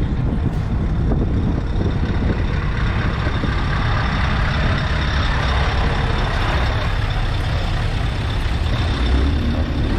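Heavy truck's diesel engine running steadily, with a constant deep rumble.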